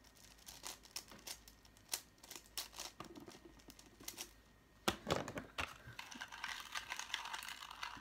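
Plastic Rubik's-type puzzle cubes being twisted by hand to scramble them: irregular clicking of the layers turning, a knock about five seconds in, then faster, denser clicking and rattling.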